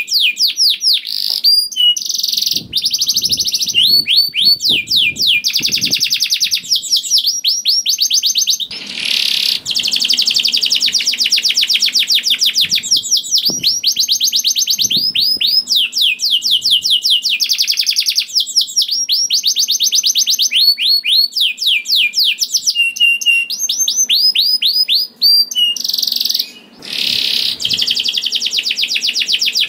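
Domestic canary singing non-stop in long, rapid trills of repeated notes, with brief breaks between the runs.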